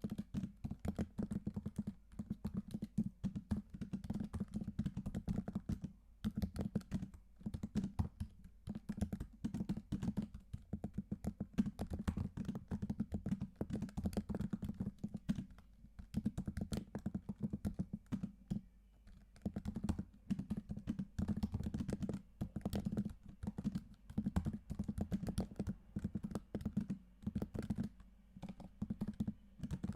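Typing on a computer keyboard: quick runs of keystrokes, rattling on steadily with a few short pauses.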